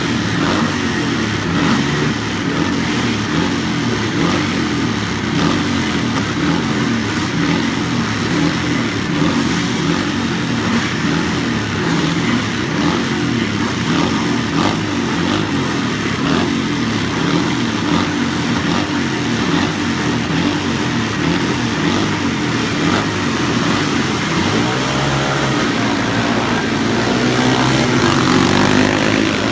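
Vintage motocross motorcycles racing, their engines running hard without pause. About 25 seconds in, one engine's pitch climbs as a bike accelerates, growing a little louder near the end.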